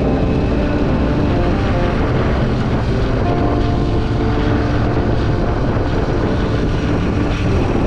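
Motorcycle engine running steadily on the move, with wind rushing past.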